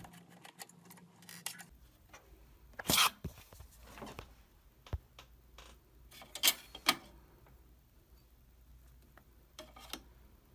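Scattered small clicks, knocks and a short scrape of plastic and metal as the wire finger guard is taken off a 120 mm computer case fan by hand; the loudest are a scrape about three seconds in and two sharp clicks a little past halfway.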